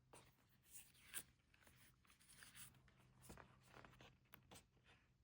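Faint paper rustling and light handling taps as an album's photobook pages and cards are turned over, with one sharper click about a second in.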